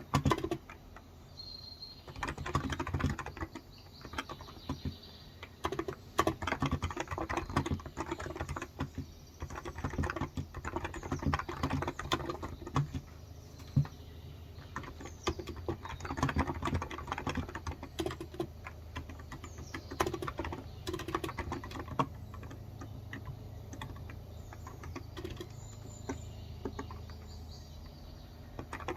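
Typing on a Cox Endeavour electrostatic capacitive (Topre-style) 35 g tenkeyless keyboard: quick runs of soft key clicks in bursts, easing off in the last few seconds. Birds chirp faintly now and then in the background.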